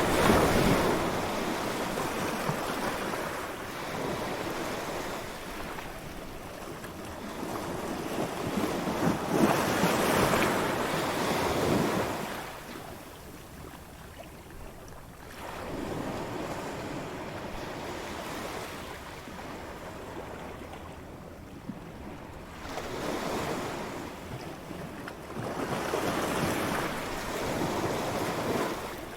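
Ocean waves breaking on a beach, each surge of surf rising and washing back, about four or five in the stretch, with a soft wash of surf between them.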